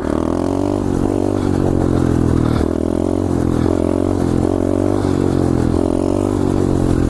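2015 SSR 125cc pit bike's single-cylinder four-stroke engine running at steady revs in third gear while the bike is held in a wheelie, its note dipping and returning about once a second.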